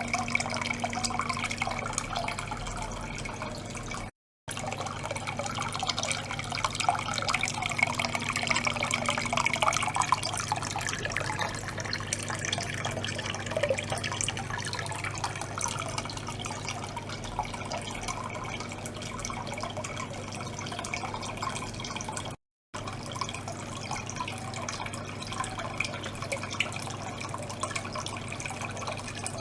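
Water churning and trickling in a small tank as a small pump circulates it, full of fine dripping ticks over a steady low hum. The sound cuts out briefly twice.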